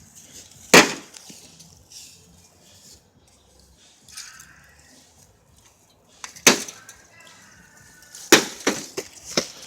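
Blows striking a microwave oven as it is smashed: one sharp hit about a second in, another about six and a half seconds in, then four quick hits near the end.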